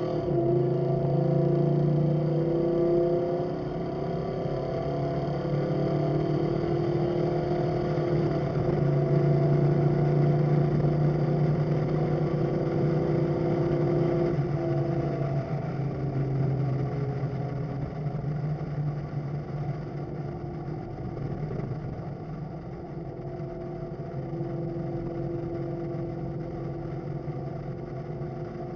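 Carbureted Chevrolet Suburban engine running under way, its pitch rising and falling a few times with speed. It grows somewhat quieter over the second half.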